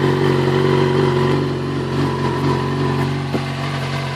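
Yamaha XJ6's inline-four engine idling steadily through its modified standard exhaust.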